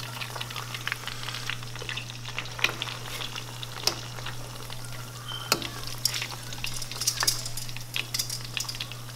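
Chicken tenders in a crushed Flamin' Hot Cheetos coating deep-frying in hot oil in a saucepan: a steady sizzle with scattered sharp crackles, over a steady low hum.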